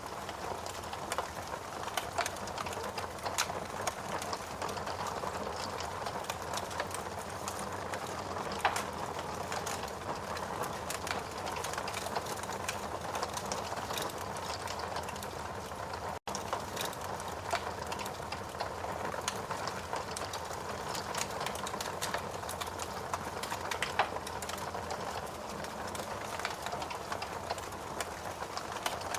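Wood fire crackling with irregular sharp pops over a steady hiss of rain. The sound cuts out for a split second about sixteen seconds in.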